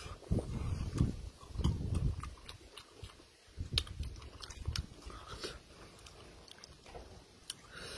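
A man biting and chewing roasted fish close to the microphone, open-mouthed, with wet smacking clicks. The chewing is heavy in the first two seconds or so, then thins to scattered smacks.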